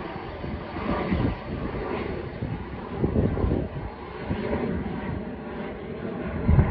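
Fixed-wing airplane engine noise from a departing aircraft, a dense rumble that swells and dips unevenly.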